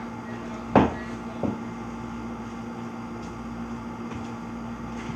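Two short thumps, a sharp one about a second in and a lighter one half a second later, over a steady low hum.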